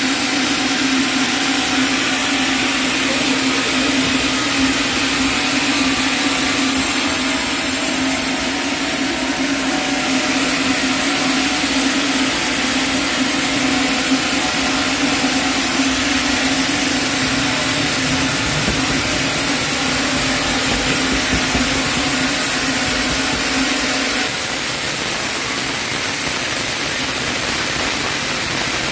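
Sawmill machinery running steadily: a constant low hum over a loud, even hiss. About 24 seconds in the hum stops suddenly and the hiss carries on a little quieter.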